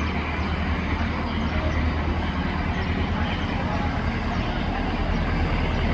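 Boat engine running steadily: a constant low hum under a noisy wash, with no change in speed.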